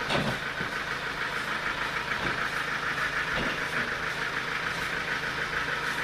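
Engine-driven sawmill running steadily with an even mechanical hum. A sharp knock sounds right at the start.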